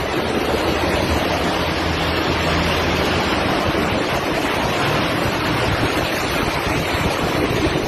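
Violent tornado wind blowing hard, a steady loud rushing with wind buffeting the microphone.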